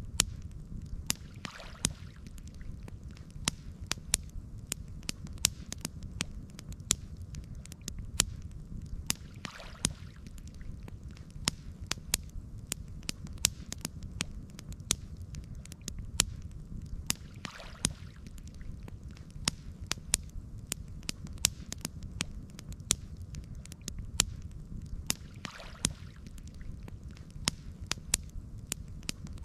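Campfire crackling: frequent sharp pops and snaps over a steady low rumble, with a soft rushing swell about every eight seconds.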